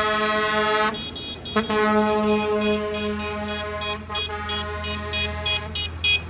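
Vehicle air horn blowing a long, steady blast that cuts off about a second in, then sounding again shortly after and holding for several seconds, over a large tractor's engine running.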